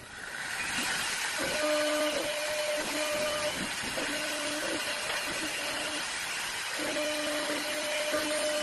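Wood CNC turning lathe running: a steady hiss that swells in over the first second, with a two-tone motor whine that starts and stops in stretches of a second or two.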